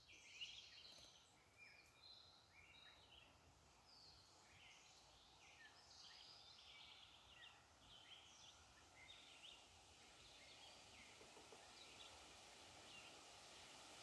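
Faint songbird chirps and calls, many short overlapping notes from several birds, busiest in the first half and thinning out toward the end.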